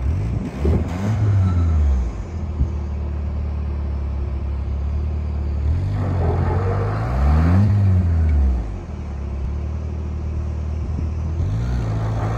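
Two-wheel-drive Jeep's engine revving up and down several times as it climbs a sandy trail, over a steady low engine drone.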